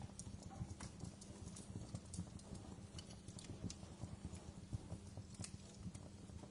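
Wood fire burning in a fireplace, with a low steady rumble and frequent irregular crackles and sharp pops.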